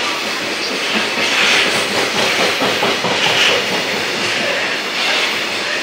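A passing train running steadily, its wheels clacking over the rail joints, the noise swelling about every two seconds.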